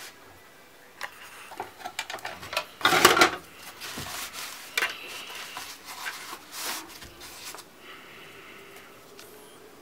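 Laptop parts being handled during a repair: scattered small clicks, taps and rubbing, loudest in a short scraping burst about three seconds in.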